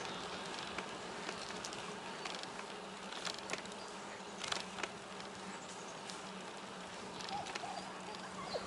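Bicycle rolling along a paved trail: a steady low hum with an even hiss and a few faint rattling clicks.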